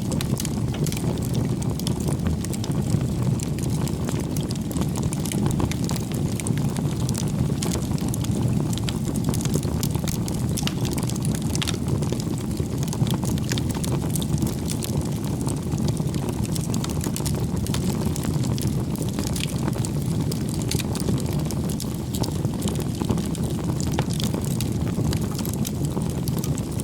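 Firewood bonfire burning steadily: a low continuous rumble of the flames with frequent small crackles and pops of the burning wood.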